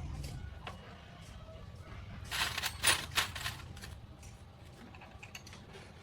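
Light clicks and clatter of small hard objects, like metal parts being handled, with a louder flurry of clattering about two to three and a half seconds in.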